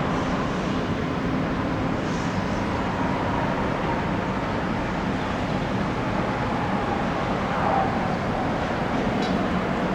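Airbus A350 jet engines, Rolls-Royce Trent XWBs, making a steady rushing roar during the landing, with a faint whine that slowly falls in pitch.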